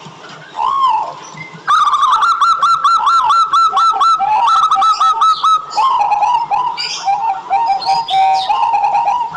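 Zebra dove (perkutut) calling: a single soft note just under a second in, then from about two seconds a fast run of repeated hooked notes, giving way to lower rolling notes over the last few seconds.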